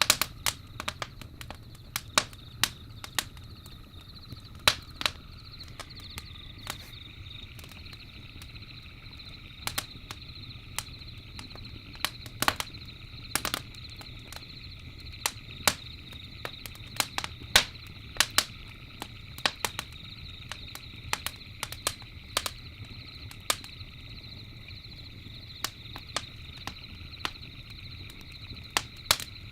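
Campfire crackling: irregular sharp pops and snaps, several a second at times, over a low steady fire rumble. Behind it runs a steady high-pitched trill of night insects.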